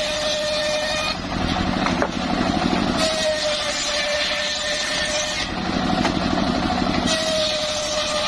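Homemade circular saw running and ripping timber. A steady whine sags a little in pitch and alternates every two seconds or so with a lower, rougher cutting noise.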